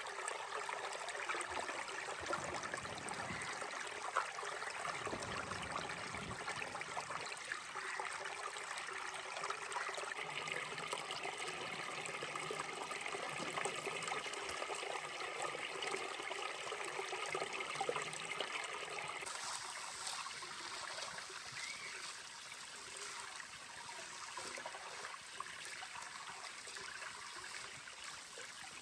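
Steady trickling, running water. About two-thirds of the way through it turns hissier and a little quieter.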